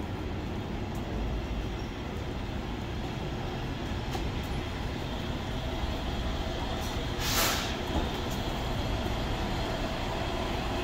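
Light-rail trains standing at a station platform: a steady low hum and rumble, with one short, loud hiss about seven seconds in.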